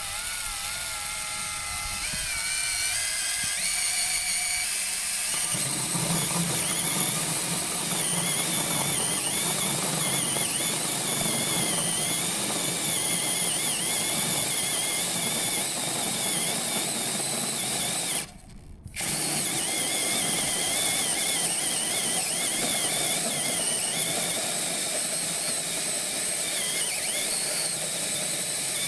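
Power drill driving a carbide-tipped (TCT) hole saw. The motor whine climbs as it speeds up, then a few seconds in the grinding of the saw cutting joins it, and the pitch wavers under load. The sound drops out briefly about two-thirds of the way through, then resumes.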